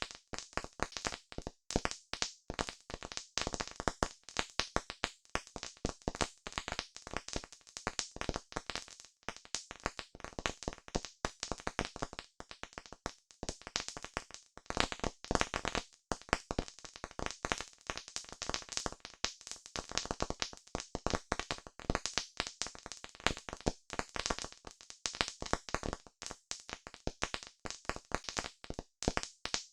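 Wood campfire crackling, with a dense, irregular run of sharp pops and snaps.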